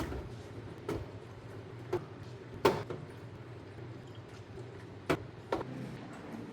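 Scattered knocks and clacks of containers being handled and set down while a fridge is cleaned out, about five over several seconds, the loudest a little before the middle, over a low steady hum.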